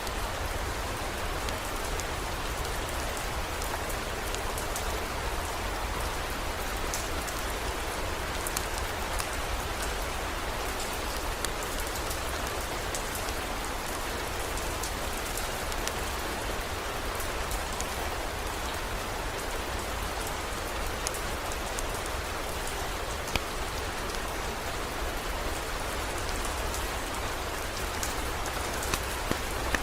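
Steady heavy rain falling, with many small sharp drop ticks over an even hiss and a low steady rumble underneath.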